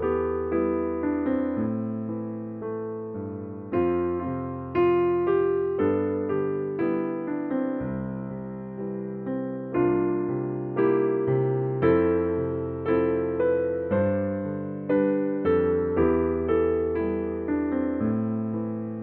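Slow piano music: notes and chords struck one after another, each ringing and fading away.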